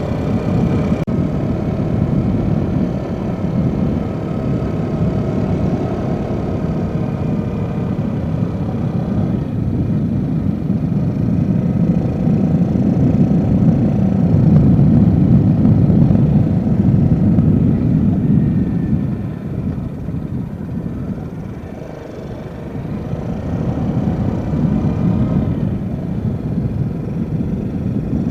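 Yamaha Jupiter Z motorcycle being ridden: its four-stroke engine runs steadily under a heavy rumble of wind. The sound eases off a little past two-thirds of the way through, then picks up again.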